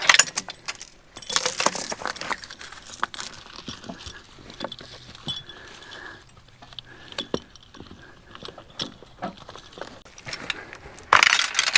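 Metal harness and logging-chain hardware on a hitched draft-horse team clinking and rattling in scattered sharp clicks, with short jangling clusters about a second in and near the end.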